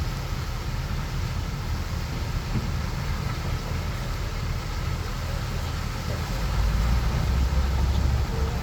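Heavy diesel engine of earthmoving machinery running steadily, working harder and louder for the last two seconds or so.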